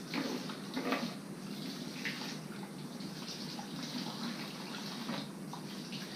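Engine coolant running out of a loosened radiator hose connection on a Jeep XJ's cooling system, a steady trickling and splashing stream with a few louder splashes; it has just started peeing out.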